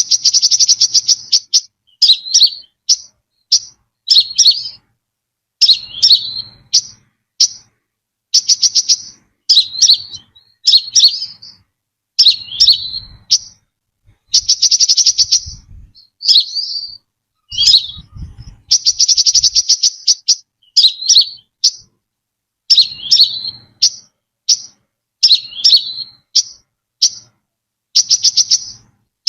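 Brown-throated sunbird singing: rapid, high trills about a second long alternate with short, sharp chirps, repeated over and over in a clean recording with no background noise.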